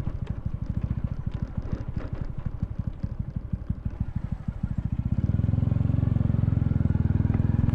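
Honda Wave 125's single-cylinder four-stroke engine running while being ridden, with an even low putter of separate firing pulses. From about five seconds in it gets louder and smoother as it pulls.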